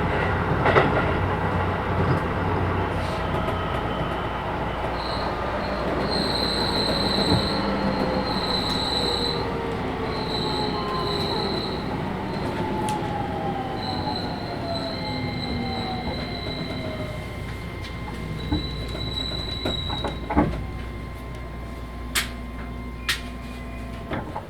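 Keisei 3000 series electric train running, heard from inside the car: the Toyo IGBT-VVVF inverter and traction motors whine in several tones that fall steadily in pitch as the train slows, over a steady wheel-and-rail rumble. A high wheel squeal comes and goes through the middle, and a few sharp clicks sound near the end.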